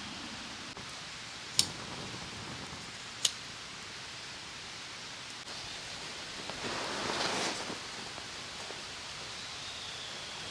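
Outdoor ambience: a steady hiss with two sharp clicks about a second and a half apart in the first few seconds, then a brief swell of wind rustling through leaves a little past the middle.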